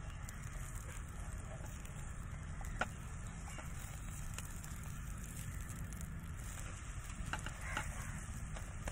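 Egg and bread omelette frying in oil on a flat pan over a low flame: a soft, steady sizzle and crackle over a low rumble. A single sharp tap comes about three seconds in, and a few clicks near the end as the omelette is turned over with a spatula.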